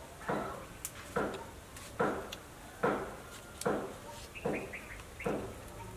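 A person chewing a mouthful of stir-fried quail close to the microphone, in steady bites about one every 0.8 seconds, each with a sharp start that fades quickly.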